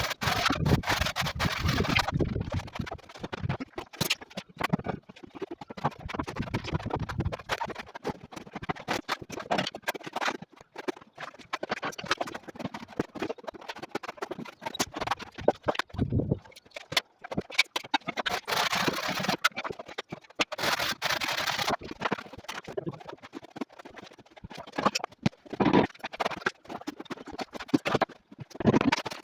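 Irregular knocks, taps and clicks of work on marble fireplace pieces during assembly, with a few longer scraping sounds about two-thirds of the way through.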